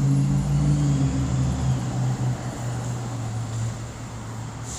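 A motor vehicle's engine humming close by, then fading away as it moves off.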